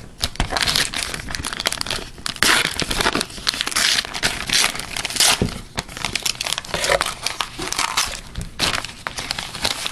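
Plastic wrapper of a trading-card pack crinkling and tearing as the pack is opened and handled, in a dense run of irregular crackles.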